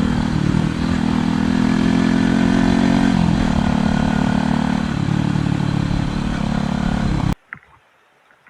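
Motorcycle engine running loudly, its pitch stepping up and down a few times with engine speed, over a wide rushing noise; it cuts off suddenly near the end.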